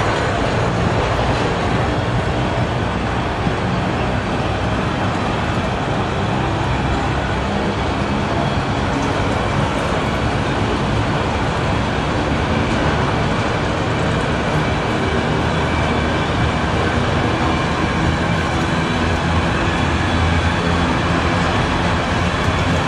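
Freight train of enclosed autorack cars rolling steadily past, with the even noise of steel wheels running on the rails.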